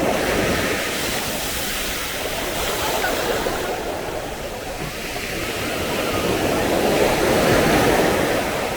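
Sea waves breaking and washing up on a sandy beach, swelling louder in the second half.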